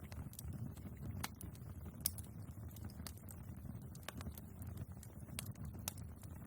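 Wood fire in a fireplace crackling, with a steady low rumble of flames under scattered sharp pops. The loudest pop comes about two seconds in.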